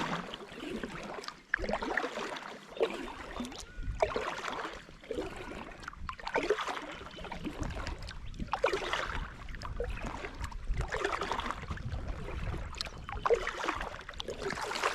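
Kayak paddle strokes, a watery splash and swish about every two seconds as the blades dip in turn.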